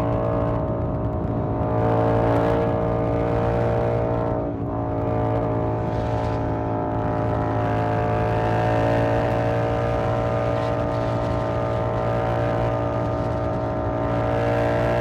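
Yamaha MT-07's 689 cc parallel-twin engine running through an SC-Project aftermarket exhaust at a steady cruise, its note holding nearly constant pitch, with a brief dip about four and a half seconds in.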